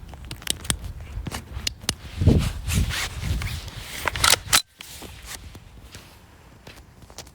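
A run of sharp clicks and rustling handling noises, loudest in the middle, cutting off abruptly about four and a half seconds in and leaving only faint clicks.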